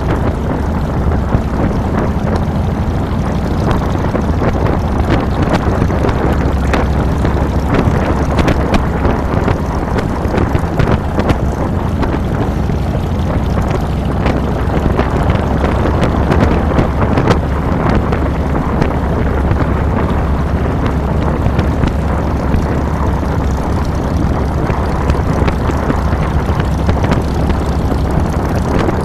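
A 2007 Harley-Davidson Fat Boy's air-cooled V-twin engine runs steadily while riding, with a deep low rumble. Wind buffets a handlebar-mounted microphone.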